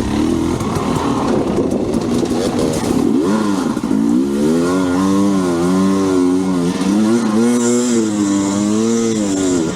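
Enduro dirt bike engine under riding load, revving up and down again and again as the rider works the throttle; from about three seconds in, its note rises and falls in quick, repeated swells.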